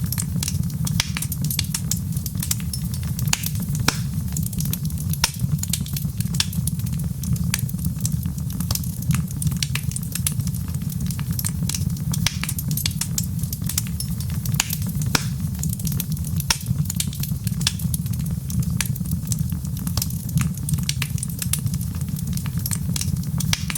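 Wood fire in a fireplace crackling: many small, irregular sharp pops over a steady low rumble.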